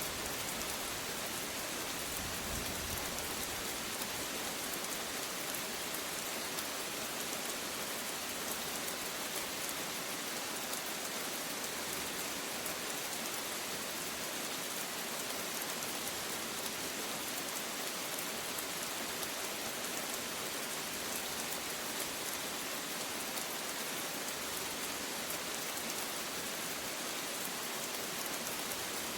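Rain falling steadily, an even hiss of many drops that holds constant throughout.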